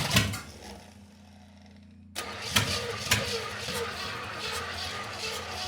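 Small-block Chevy 350 V8 being cranked as it tries to start. A loud burst at the start dies away into a pause of over a second, then cranking cuts back in about two seconds in and runs on with a regular pulsing. It struggles to catch, which the owner puts down to the carburetor having no working accelerator pump.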